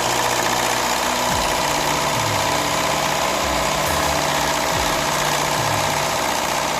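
Peugeot 207 Le Mans's 1.6 THP turbocharged four-cylinder petrol engine idling unevenly, with irregular low thumps: it is misfiring and running on only two cylinders.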